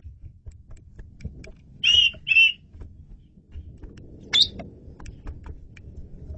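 Asian pied starling calling: two loud whistled notes about half a second apart, then a quick rising note, with faint scattered clicks between.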